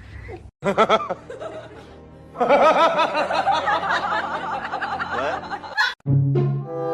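Comic laughter sound effect, a dense burst of several wavering laughing voices lasting about three and a half seconds, followed near the end by a steady horn-like honk.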